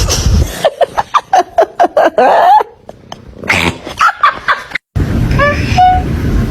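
A pet animal's rapid string of short, sharp cries, then an abrupt cut to another clip with a few brief chirping calls over background noise.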